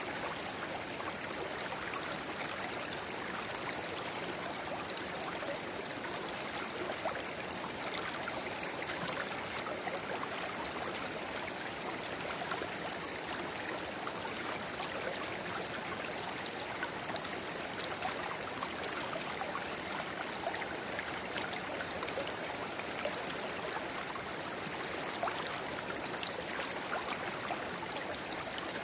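A shallow river babbling steadily, with a small spring-fed rivulet trickling into it, full of fine splashes and gurgles.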